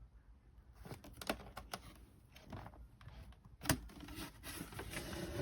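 A string of light, irregular clicks and taps, with one sharper knock about three and a half seconds in.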